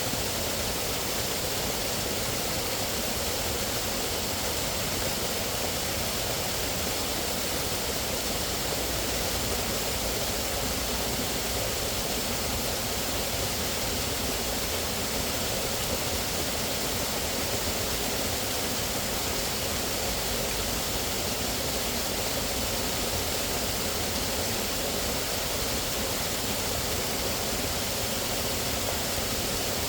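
Steady rushing water, an even hiss with no distinct events.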